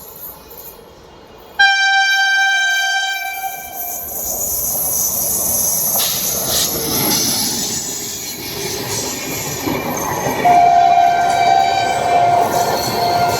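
WAP-7 electric locomotive's two-tone horn sounding one sudden blast of about two seconds, followed by the rushing rumble of the express train passing. A steady high tone joins about ten seconds in and holds.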